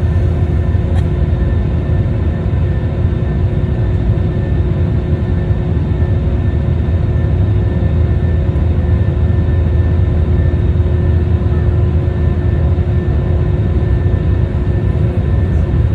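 Asiana Airlines airliner's jet engines running with a steady, loud low rumble and a few steady humming tones above it.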